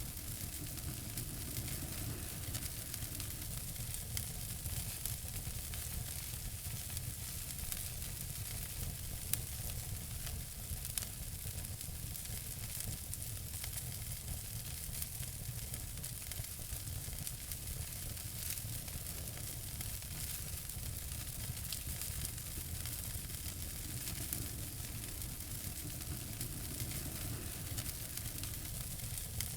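Wood fire burning in a fireplace: a steady hiss with frequent small crackles and an occasional louder pop.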